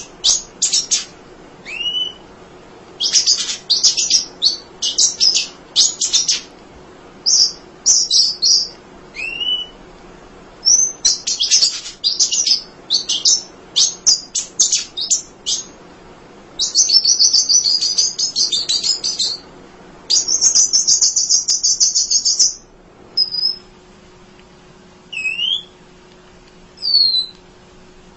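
Munia (emprit) singing: rapid, high chattering trills in many short bursts, broken by a few single thin sliding whistle notes, with two longer unbroken trills of two to three seconds past the middle.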